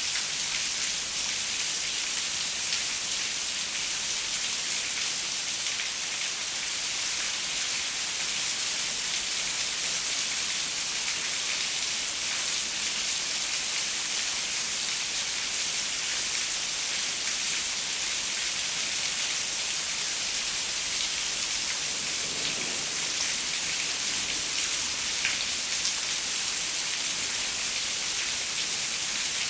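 Steady rain falling on a window pane: an even hiss with small scattered drop ticks.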